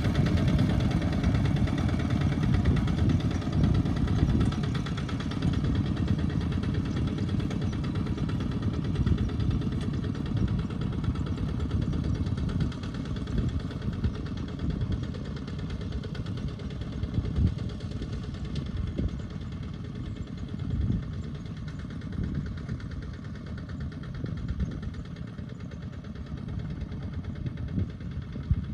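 Small farm tractor engine running steadily, growing gradually quieter through the first half.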